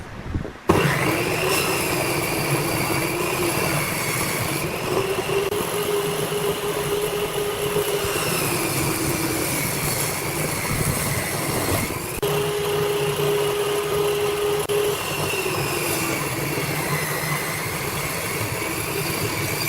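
A woodworking power tool running steadily with a high whine that wavers slowly in pitch. There is a brief break about twelve seconds in.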